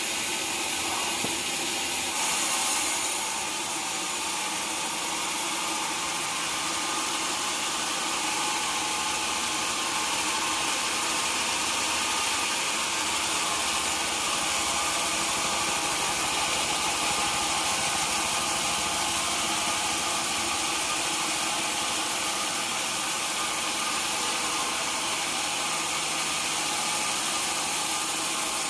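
Sawmill machinery running steadily, a continuous motor and saw drone with a brief louder swell about two to three seconds in.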